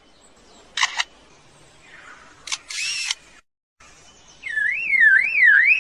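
Lyrebird mimicking a camera shutter: a few sharp clicks and a short whirring burst. After a brief break comes a loud warbling whistle that swings up and down about two to three times a second, like a car alarm.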